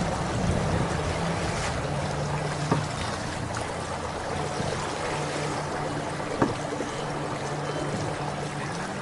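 Water rushing and splashing along the hulls of a small sailing catamaran under way in gusty wind, with a low hum that comes and goes. A few sharp knocks, the loudest about six seconds in.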